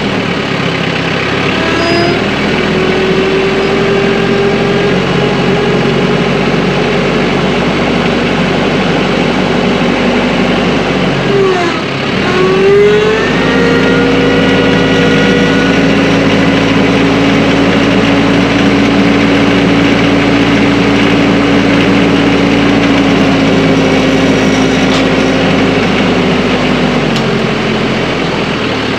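TYM tractor's diesel engine revving up from idle and running at working speed. The pitch dips briefly and climbs again about halfway through, then it settles back toward idle near the end.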